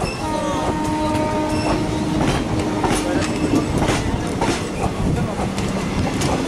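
Indian Railways passenger coaches running at speed, heard from on board: a steady rumble with the clickety-clack of the wheels over rail joints, and a held tone through the first half.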